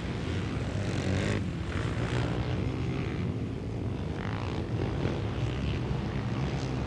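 Flat track racing motorcycles running laps on a dirt oval, heard as a steady blended engine drone.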